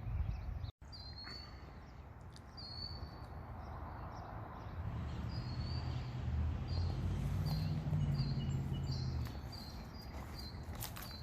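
Small bird chirping the same short high note over and over, about twice a second, over a low outdoor rumble that swells in the middle and fades again.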